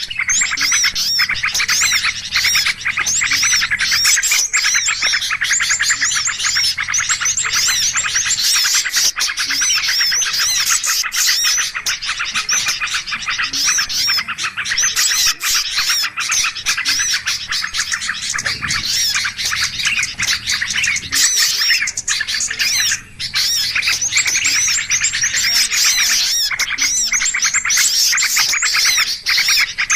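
Dense chorus of many small songbirds chirping and scolding at once, rapid overlapping calls with no pause: the agitated, noisy flock calls used as a bird-lure recording. A faint low hum sits underneath in places.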